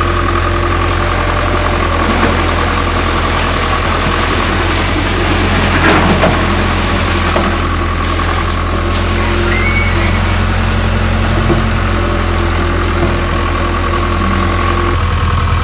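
Hitachi excavator's diesel engine running steadily at a low, even hum, with a brief knock about six seconds in.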